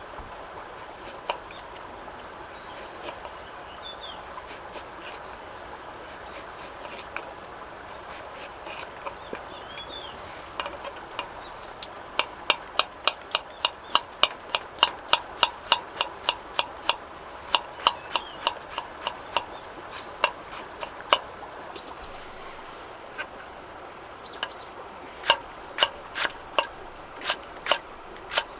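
Knife chopping on a cutting board in a steady rhythm of about three cuts a second, stopping briefly and then starting again near the end. A few isolated clicks come before it, over a steady low hiss.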